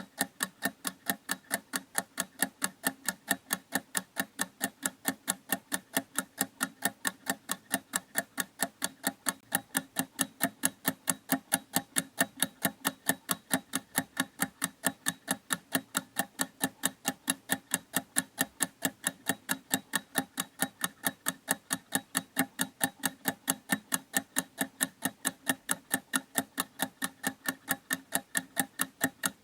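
Clock ticking in a steady, even rhythm of sharp ticks, about three a second.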